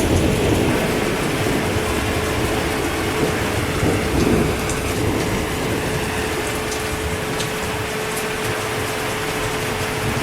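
Heavy rain falling steadily, with a low roll of thunder rumbling through roughly the first half and dying away. A faint steady hum runs underneath.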